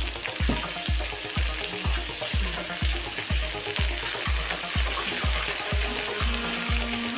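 Eel pieces frying in oil in a wok, a steady sizzle, under background music with a bass beat about twice a second.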